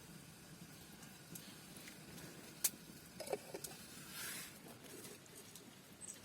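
Faint clicks and handling noises over a low steady hiss, with one sharp tap a little before halfway and a short rustling scrape about two-thirds through.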